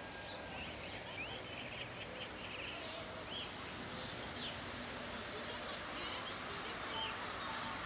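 Birds chirping now and then, short single calls about a second apart, over a steady outdoor hiss.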